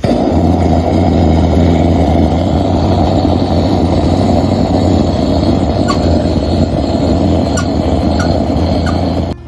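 Loud, steady low rumble of a running engine that starts and stops abruptly.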